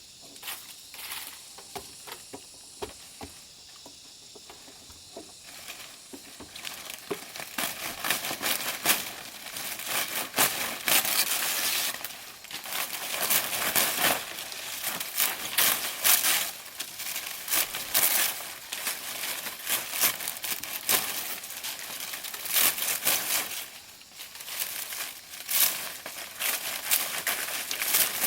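Dry leaves crackling and rustling as they are handled, sparse at first and then dense and continuous from about six seconds in, with many sharp crackles.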